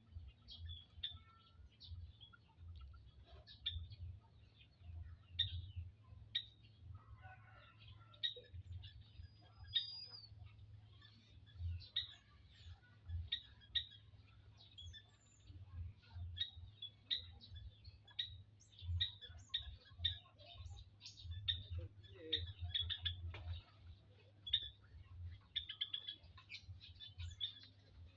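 Caged quail making many short, high peeping chirps over a steady low hum.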